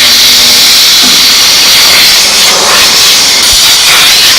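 Dry steam vapor cleaner spraying a jet of steam, a loud steady hiss.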